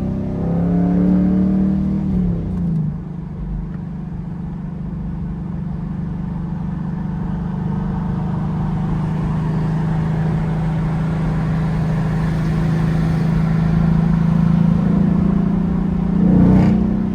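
2021 Ford Mustang GT's 5.0 L V8 engine and exhaust while driving: the revs climb and then drop away about two and a half seconds in, then settle into a steady cruise that creeps up slowly, with a brief louder surge near the end.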